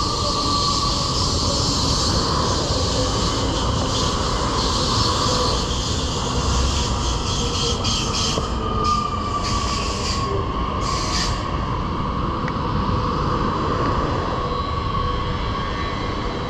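Electric multiple-unit train running along the track below, a steady rumble with a high whine that slides slowly down in pitch, and a few short clicks partway through.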